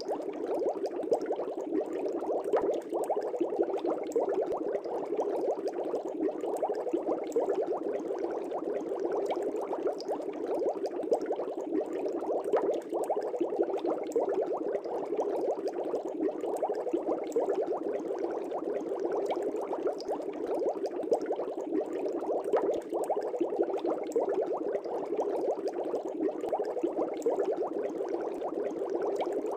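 Aquarium air bubbles rising and bursting at the water surface in a fish tank, a steady dense bubbling with many small pops.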